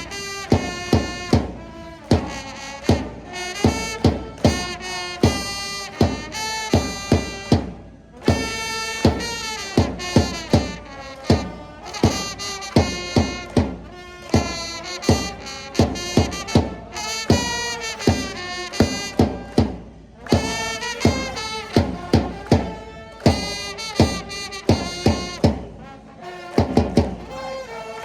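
Japanese baseball cheering section's trumpets and drums playing a player's cheer song, a brass melody over steady, hard drum beats, with fans singing along.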